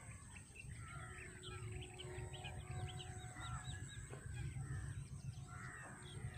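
Several birds calling at once, mostly quick high chirps repeated over and over, with a few longer warbling calls, over a low steady rumble.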